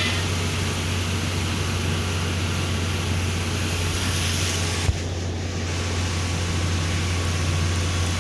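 Steady low drone and hiss of a car driving on rain-wet roads, heard from inside the cabin, with a single short click about five seconds in.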